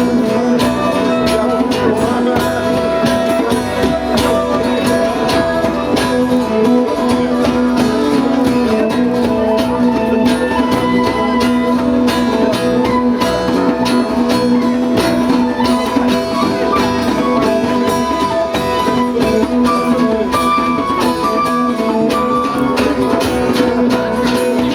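Live band music: guitar playing over steady held drone-like tones, with a dense percussion beat and no singing.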